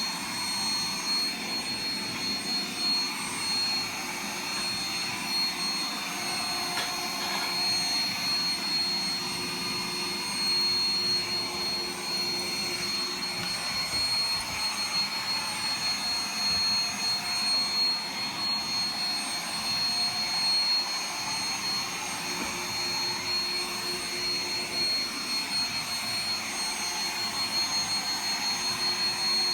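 Roomba robot vacuum running: a steady whirring hum with a constant high-pitched whine on top.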